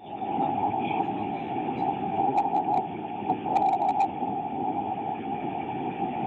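A radio downlink from the descending Shenzhou return capsule opens abruptly onto a steady rushing noise, band-limited like a transmission, with a constant hum-like tone under it and a few faint ticks about two to four seconds in.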